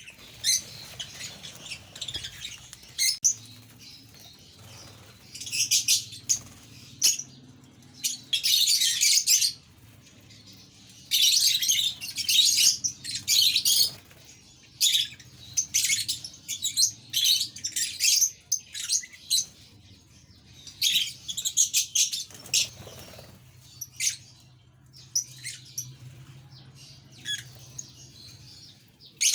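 A flock of caged pet parrots chattering and chirping in repeated bursts of a second or two, over a faint steady low hum.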